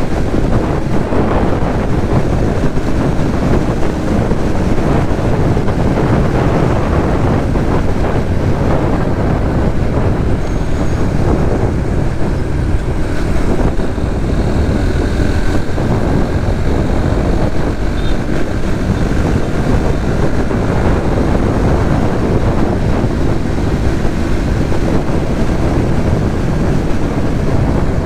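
Steady wind rush on the microphone of a Suzuki GSX-S150 motorcycle on the move, with its engine and the surrounding traffic underneath.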